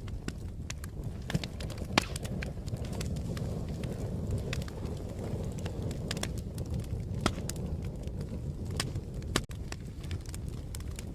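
Fire crackling: a steady low roar of flames with irregular sharp pops and snaps, a few of them louder.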